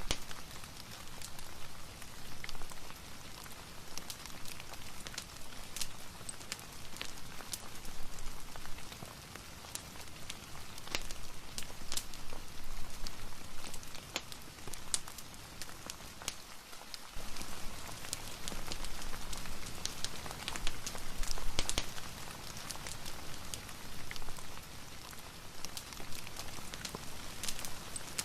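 Steady rain patter, with irregular sharp crackles and ticks from a wood fire mixed in.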